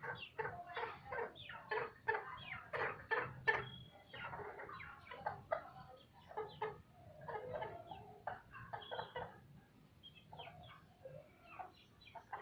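Chickens clucking, a rapid run of short calls that is busiest over the first few seconds and then thins out.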